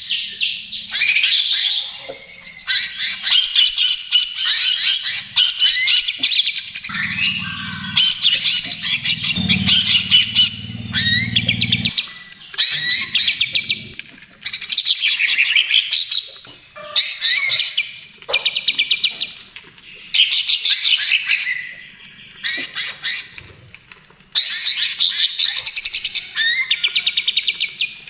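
Cucak ijo (green leafbird) singing gacor: loud, fast phrases of rapid chirping notes, each lasting a few seconds, repeated after short pauses.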